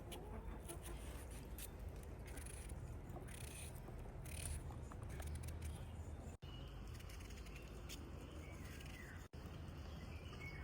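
Outdoor ambience: a steady low rumble with scattered small clicks and faint bird chirps. The sound cuts out for an instant twice.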